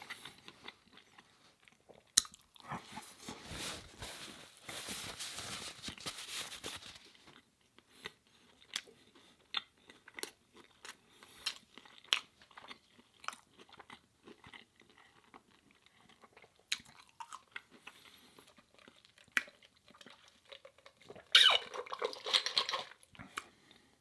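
A person eating close to the microphone: two stretches of crunchy chewing, about two seconds in and again near the end, with scattered wet mouth clicks between them.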